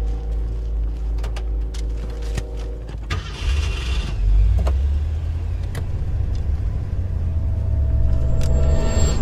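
Car engine running with a heavy low rumble. About three seconds in it surges with a burst of hiss, and near the end its pitch climbs as it revs up.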